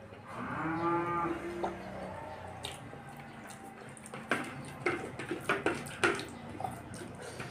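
A drawn-out call of about a second and a half at a steady pitch near the start. From about four seconds in, a run of sharp wet smacks of open-mouthed chewing follows.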